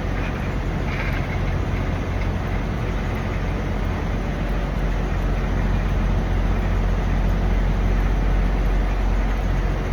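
Steady low rumble of idling diesel trucks, a constant deep hum with an even noise over it.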